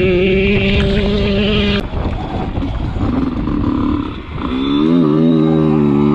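Two-stroke dirt bike engine running at steady high revs, its note dropping away suddenly about two seconds in; a few seconds later an engine climbs in pitch and holds a steady high note.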